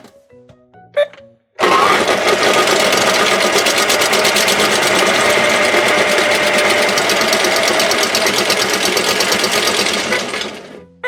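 Pink toy washing machine running its wash cycle: a steady, fast whirring rattle starts about a second and a half in and fades out near the end, after a short beep.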